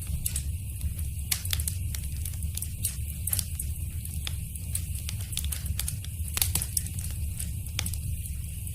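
Wood fire crackling and popping in a fireplace: irregular sharp snaps and pops over a steady low rumble of the burning.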